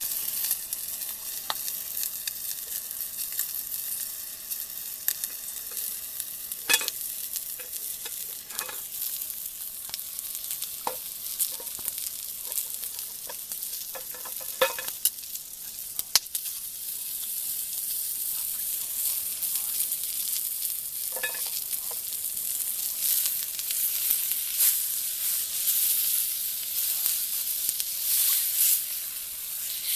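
Food sizzling in a frying pan over a campfire: a steady high hiss with scattered sharp pops and crackles, the hiss growing a little louder over the last third.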